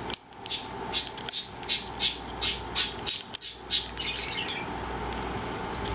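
Cockatiel biting and crunching a tortilla chip in its beak: a quick series of crisp crunches, about two to three a second.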